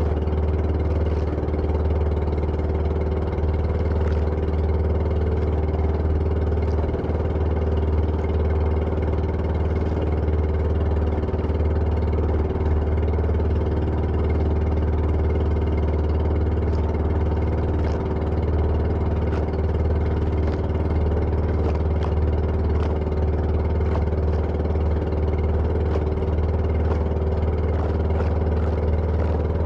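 Engine running steadily at an even speed, a constant low hum that does not change.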